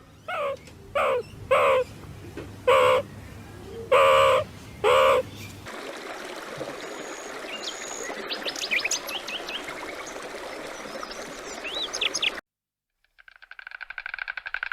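Bird calls: six loud, short, pitched calls in the first five seconds, the fifth a little longer, followed by fainter high chirping birdsong that stops abruptly.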